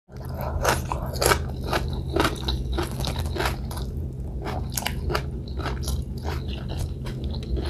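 Close-miked chewing of a mouthful of fried milkfish and rice, with crisp crunches about two or three times a second over a low steady hum.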